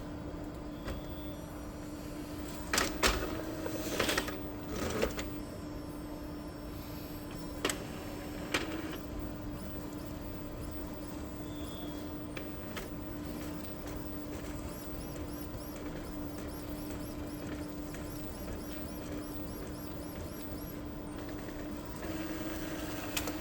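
Epson L3256 inkjet printer running a test print after a printhead replacement. A few sharp clicks and knocks come in the first nine seconds or so, over a steady mechanical hum, with a faint repeating high chirp later on.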